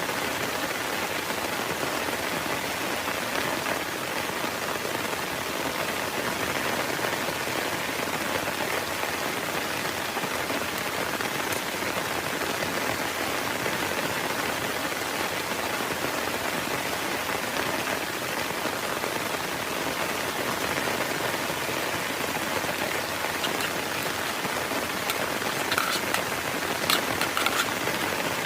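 Heavy rain falling steadily, with a few sharper drop hits near the end.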